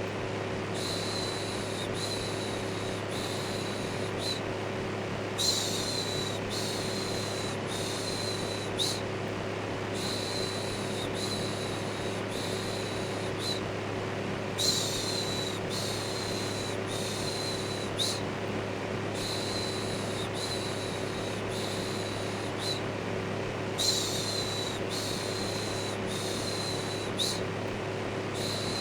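Electric fan running steadily with a low motor hum, overlaid by a rhythmic 'shhh' shushing sound repeated about once a second in runs of four or so, with a brief pause every four to five seconds.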